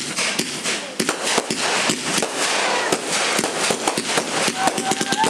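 Fireworks going off: a dense, rapid crackle of sharp firecracker pops, with a steady whistling tone coming in near the end.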